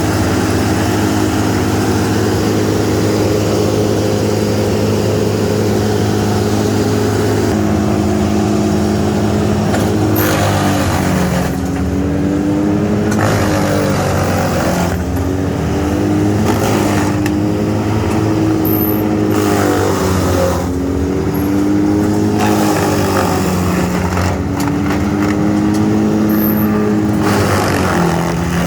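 Wood chipper's engine running steadily at high speed. Its pitch sags and recovers several times as it takes load, typical of material being fed through the chipper.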